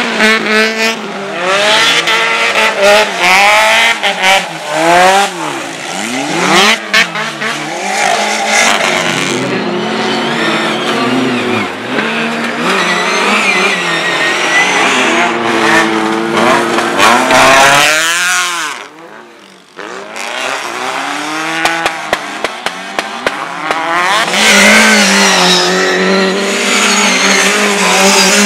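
Race car engines driven hard, revving up and dropping back again and again as the cars change gear, loud and close. The sound drops away briefly about two-thirds of the way through, then the engines return.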